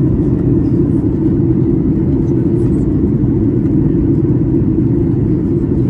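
Steady low rumble of cabin noise inside a Boeing 737-800 airliner, even and unchanging throughout.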